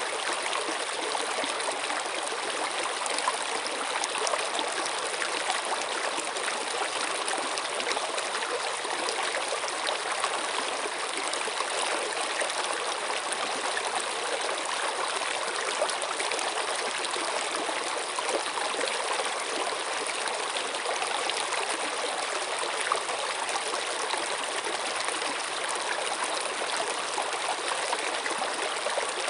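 Stream water flowing and trickling steadily, an even rushing splash with no change in level.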